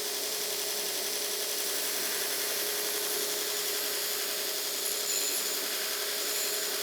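Belt grinder running steadily, its abrasive belt grinding a forged railroad-spike steel knife blade, with a constant motor hum under the grinding noise.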